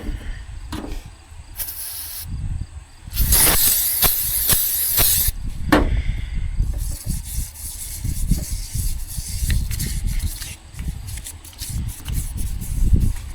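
Aerosol brake cleaner spraying, a short spurt and then about two seconds of steady hiss. After it comes a wire brush scrubbing back and forth inside a metal pulley.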